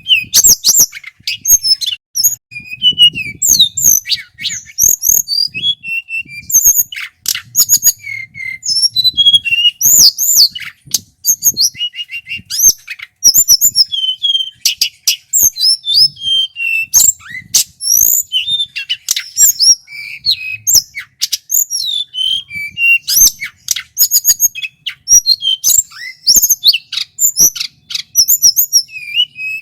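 Male tledekan gunung singing continuously: a loud, clear, fast and varied run of high whistles, chirps and sharp clicking notes with hardly a pause.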